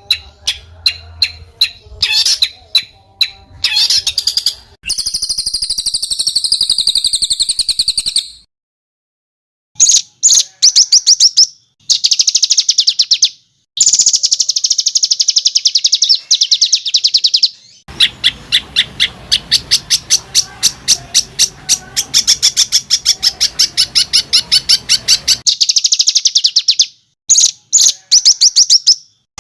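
A songbird's harsh, rapid-fire song, the rough "tembakan" phrases and tight rolls used as masteran for training competition birds. It comes as bursts of very fast, sharp repeated notes and rattling trills, with one buzzy roll and a long trill of about seven seconds near the middle. The bursts are split by abrupt, silent breaks.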